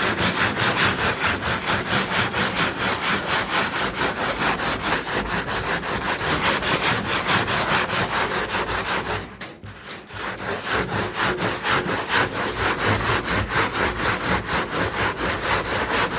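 Hand sanding a truck toolbox: quick back-and-forth rubbing strokes of sandpaper, about four or five a second, with a brief pause about nine seconds in.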